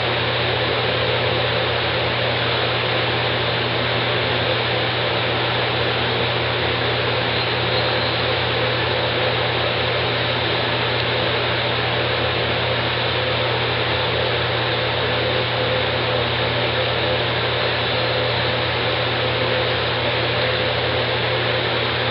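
Steady, even background hiss with a low hum underneath, unchanging throughout, with no distinct events.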